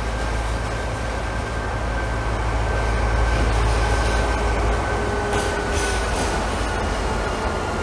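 A train moving slowly through the station. A steady heavy rumble swells to its loudest about three seconds in, over a thin high squeal that slides slowly down in pitch.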